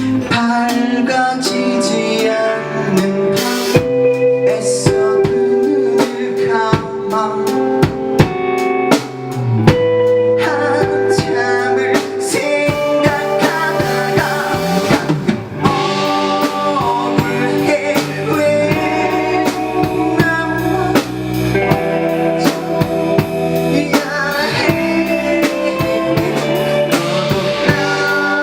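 A rock band playing live on drum kit and guitars in a stretch without transcribed lyrics.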